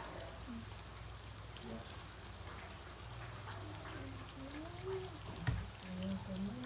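Steady rain falling, under a low hum, with faint distant voices and a single knock about five and a half seconds in.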